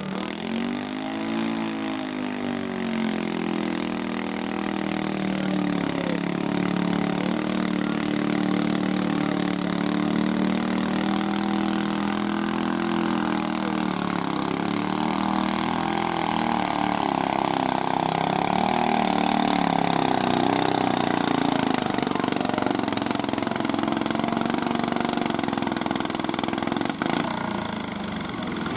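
Garden tractor engine running hard under load, as when pulling a sled. Its pitch swings up and down in the first few seconds, then holds fairly steady and gets louder from about halfway.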